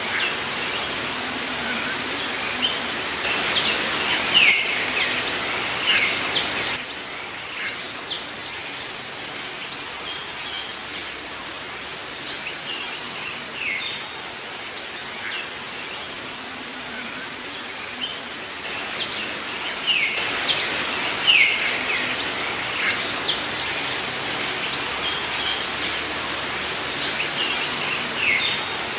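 Rainforest ambience: a steady hiss of rain with many birds chirping and calling over it, the calls busiest a few seconds in and again about two-thirds of the way through.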